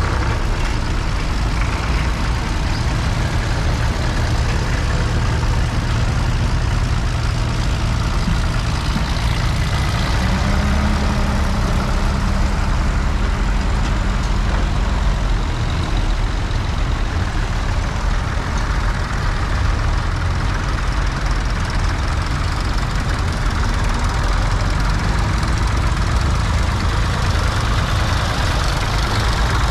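Tractor diesel engine running steadily with a continuous low drone. A steady higher tone joins for a few seconds about ten seconds in.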